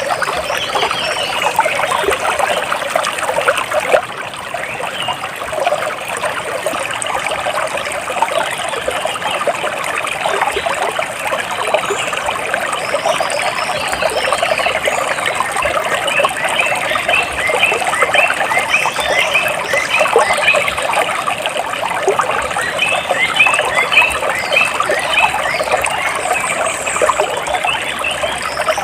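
Water trickling and splashing steadily, with birds chirping over it; from about halfway through, quick runs of short repeated chirps stand out above the water.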